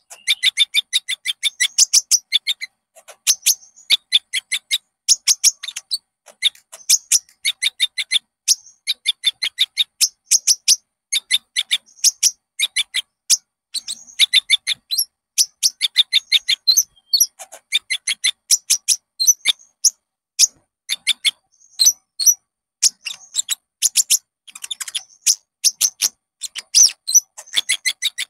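Konin songbird singing: fast, rapid-fire chirping phrases of a second or two, repeated with short pauses between them.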